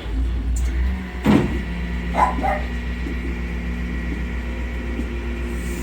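A dog barks a few times in the first half, over the steady low hum of an idling engine.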